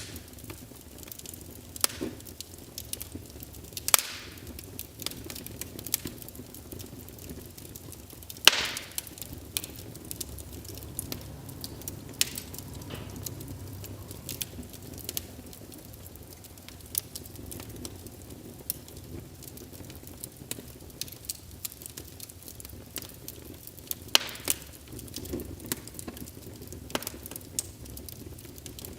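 Wood fire burning in a fireplace: a low steady rumble with irregular crackles and a few louder pops.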